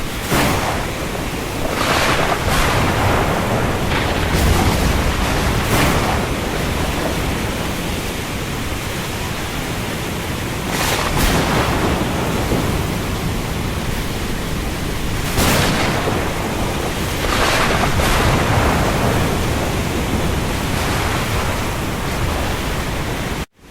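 Steady heavy rain on open sea, a dense hiss with louder surges of wash every few seconds. It cuts out for a split second near the end.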